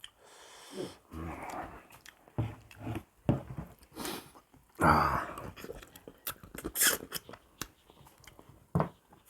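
Close-up chewing and lip-smacking on buffalo trotters: a string of wet clicks and smacks, with a short voiced sound about five seconds in.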